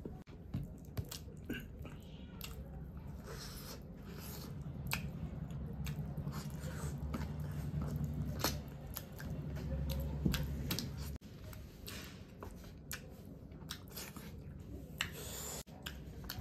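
Close-up eating sounds: a man biting and chewing fried chilli chicken and fried rice, with many small wet clicks and smacks of the mouth.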